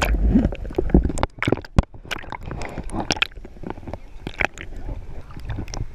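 Lake water sloshing and splashing close to the microphone, with many irregular clicks and knocks and a heavy low rumble in the first second.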